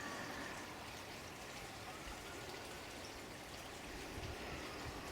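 Steady running water, like a small stream flowing.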